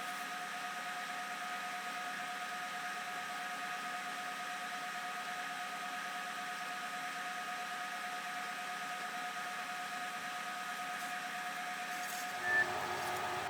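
Home-built CNC milling machine running with a steady motor whine made of several held tones, likely while cutting MDF with a compression wood end mill. Near the end there is a brief louder blip, and the pitch mix changes as a lower tone comes in.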